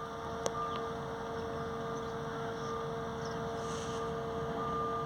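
Steady drone of a boat's engine with a constant humming tone over it. Faint high chirps of birds come in briefly near the middle.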